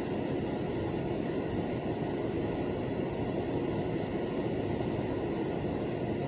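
A steady, even low rumbling noise with no distinct events.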